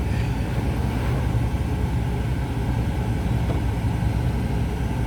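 A car running with a steady low rumble.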